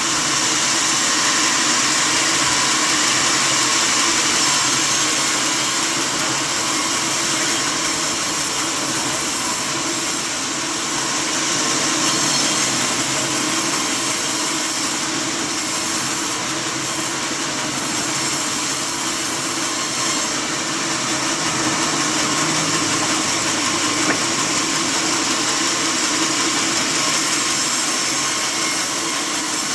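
Sawmill saw running and cutting through timber, a steady, unbroken noise.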